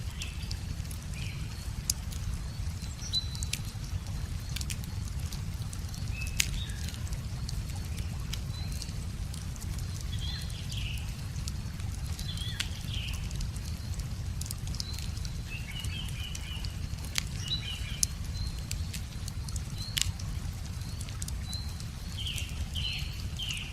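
Wood fire crackling, with sharp pops at irregular moments, over a steady low rush of a river. Small birds chirp in short calls every few seconds.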